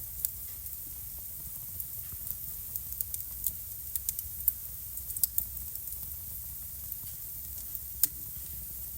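Wood fire burning in a fireplace: a steady soft hiss with irregular sharp crackles and pops, coming thickest in the middle and with one loud pop near the end.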